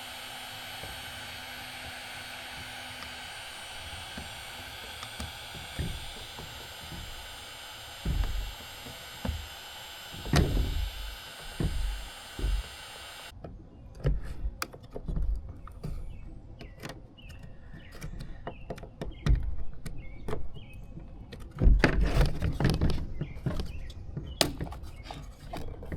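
Heat gun blowing steadily and switched off about halfway through, while a screwdriver knocks and pries at a glued plastic tail light lens. After the heat gun stops there are sharp clicks and thumps as the softened lens is worked loose and pops off.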